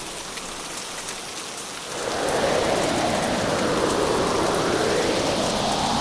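Hurricane rain pouring, with storm wind. About two seconds in, the wind swells into a louder gust that rises and eases.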